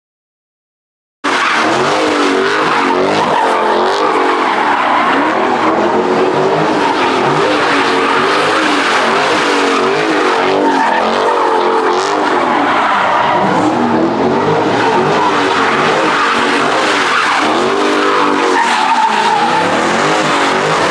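A car doing a burnout: tires squealing continuously while the engine revs up and down again and again. The sound starts abruptly about a second in, after a short silence.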